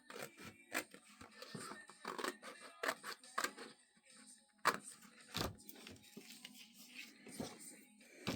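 Scissors cutting across the card cover of an old book: a run of irregular sharp snips and clicks.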